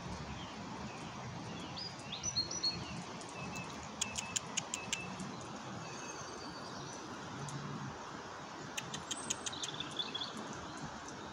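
Small birds chirping in short high bursts, three times, over a steady hum of outdoor background noise.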